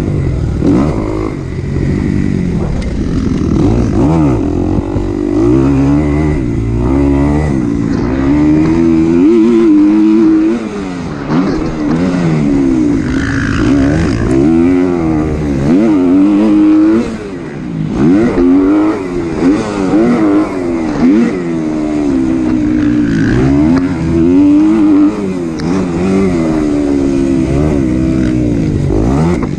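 Dirt bike engine on a motocross lap, a 2023 Kawasaki KX250 four-stroke single, revving hard with its pitch climbing and dropping over and over as it accelerates, shifts and backs off.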